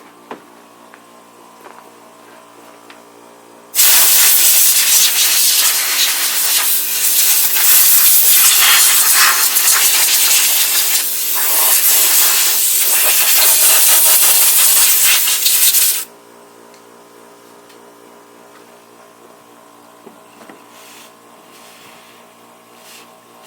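Compressed-air blow gun hissing in one long blast of about twelve seconds, blowing oily sawdust out of a chainsaw. It starts suddenly about four seconds in and cuts off sharply.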